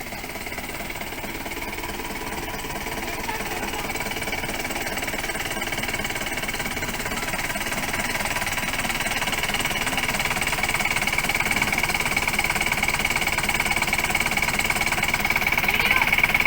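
A small motor running steadily with a rapid, rattling pulse, slowly growing louder.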